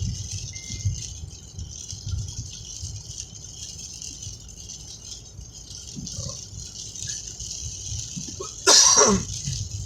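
Steady rain falling, a constant hiss with an irregular low rumble beneath it. Near the end comes a loud, brief sound that falls in pitch.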